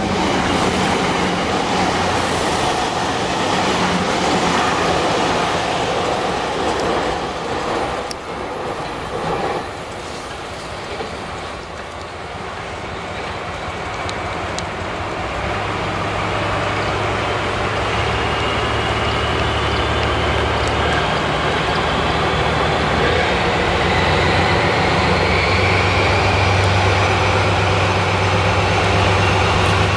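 A train running, with a steady rumbling noise; from about halfway a low hum sets in and a thin whine rises steadily in pitch as the train gathers speed.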